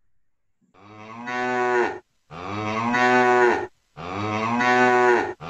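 Recorded cow mooing: three long moos in a row with short gaps between them.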